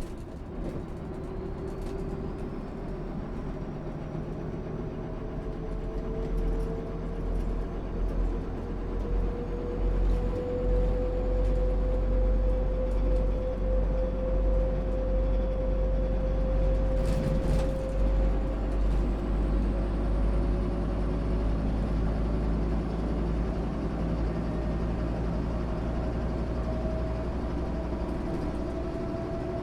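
1996 MAN SÜ 272 bus's diesel engine running under load as the bus gathers speed: a deep rumble with a whine that rises slowly and steadily in pitch, getting louder over the first ten seconds or so.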